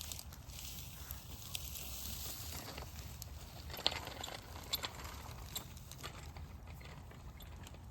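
Child's bicycle being ridden over bumpy grass: tyres rustling through the grass over a steady low rumble, with a few sharp clicks and knocks from the bike, the loudest about four seconds in.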